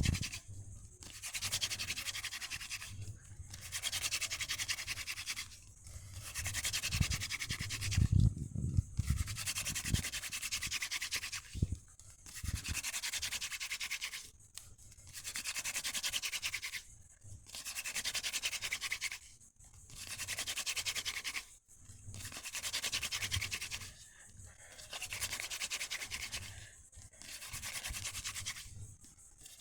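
Hand drill fire-starting: a wooden spindle spun between the palms and drilled into a fireboard, making a dry rubbing, grinding hiss as friction builds heat. The hiss comes in runs of about two seconds with short pauses between them, about a dozen in all, and a few low thumps fall in the middle.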